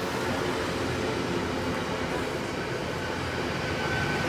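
Train running on rails: a steady rumble, with a thin high wheel squeal coming in near the end.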